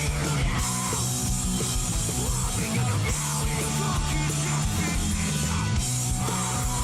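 Hard rock band playing live: distorted electric guitars, bass and drums with cymbals ringing steadily.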